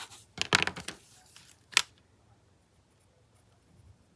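Paper and craft supplies being handled on a work surface: a brief rustle in the first second, then a single sharp click a little under two seconds in, then quiet.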